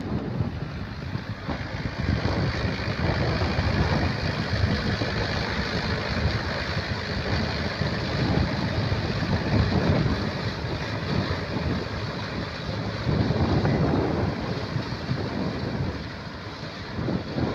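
Tractor engine running as it works a muddy field, with wind buffeting the microphone.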